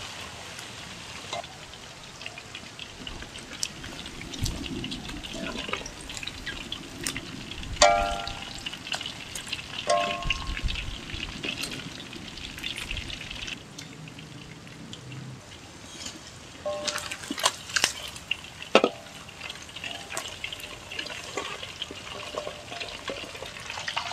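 Spiced chicken tails frying in hot oil in a wok, a steady sizzle. A metal spatula scrapes through the pieces and clanks against the wok several times, with short ringing strikes about eight seconds in and again in a cluster around seventeen to nineteen seconds.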